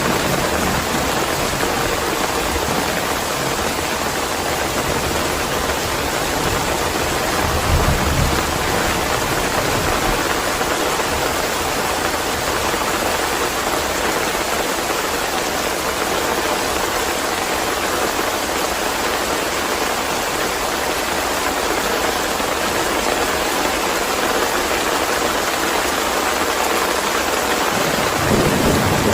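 Steady heavy rain. A short low thunder rumble comes about eight seconds in, and another rumble builds near the end.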